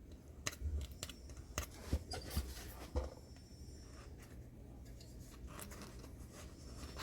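Hand tools cutting and scraping at a 10-inch woofer (JBL M110-4) under repair: several sharp snips and clicks in the first three seconds, then lighter scratching.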